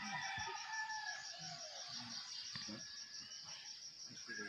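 A rooster crowing: one long drawn-out call in about the first second and a half, with another starting near the end, over a steady, evenly pulsing high drone of insects.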